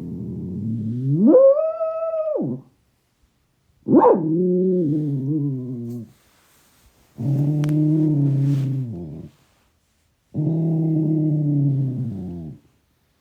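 A dog making drawn-out growling howls, four in a row with short pauses: the first starts low and rises into a higher held howl, the next three are low growling groans. The owner does not know the cause and does not think the dog is in pain.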